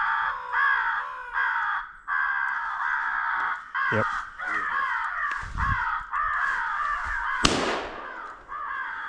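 Crows cawing: a steady run of harsh, repeated caws. A single sharp bang about seven and a half seconds in, a shotgun shot.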